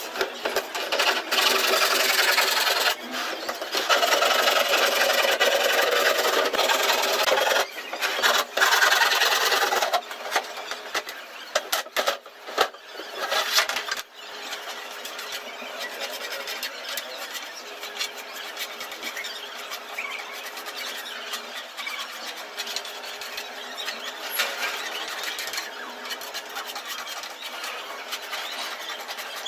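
A power tool working wood, running in loud bursts for about ten seconds, followed by a few sharp clicks and knocks, then a quieter steady whirring.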